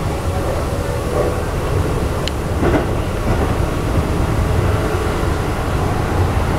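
Keikyu New 1000 series electric train running, heard inside the passenger car: a steady low rumble of wheels and running gear on the track, with a short sharp click about two seconds in.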